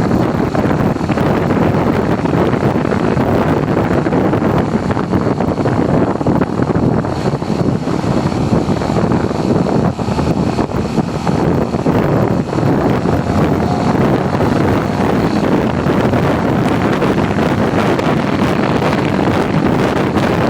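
Wind rushing over the microphone of a motorcycle on the move, with the running noise of the bike underneath, steady throughout.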